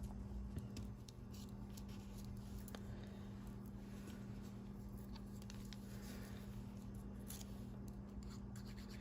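Faint snipping and handling of paper with fine-tip scissors, a few small clicks, over a steady low hum.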